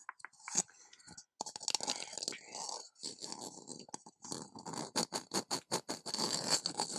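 Close-miked ASMR tapping and scratching by fingers: a scratchy rustle about a second and a half in, then quick taps, about four or five a second, from just past the middle.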